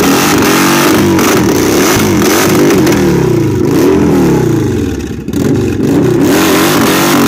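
Motorcycle engine revved hard during a rear-tyre burnout, held near the rev limiter, its pitch swinging up and down again and again. The engine note sags briefly about five seconds in, then climbs back.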